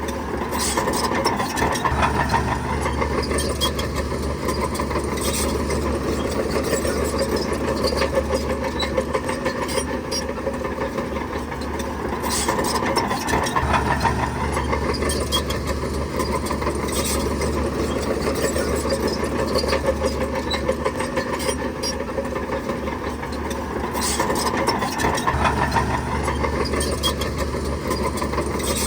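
Shantui bulldozer's diesel engine working steadily, its note swelling about every eleven seconds as it takes load, with scattered short clanks from the tracks and blade against stone.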